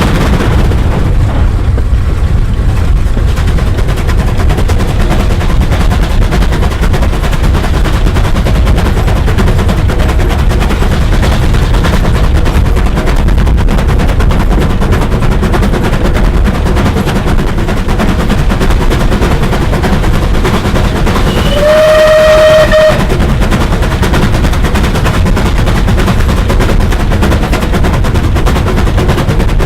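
Bulleid steam locomotive working hard, its exhaust a loud, fast, continuous run of sharp beats. About two-thirds of the way through, the whistle sounds once for about a second, sliding up briefly and then holding one pitch.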